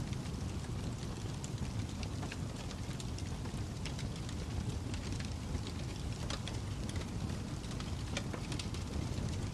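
Fire crackling: a steady low rumble of flames with frequent, irregular sharp pops and snaps.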